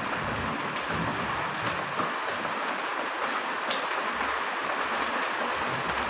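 Steady heavy rain, with a low uneven rumble coming and going underneath.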